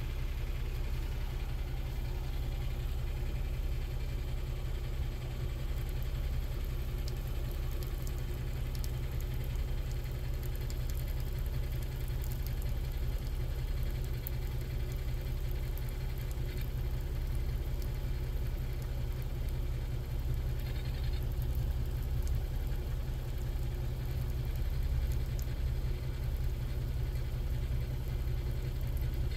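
Jeep Wrangler engine idling steadily while the vehicle stands still, a low, even rumble.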